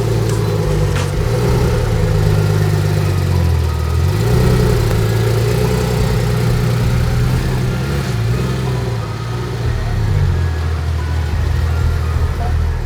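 Porsche 911 GT3 RS (991.2) naturally aspirated flat-six running through a Dundon street header and muffler while the car is driven at moderate, fairly steady revs. The pitch dips and picks up again a few times.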